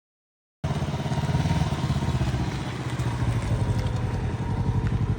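Can-Am three-wheeled motorcycle engine running at low speed, a steady pulsing note that cuts in abruptly about half a second in.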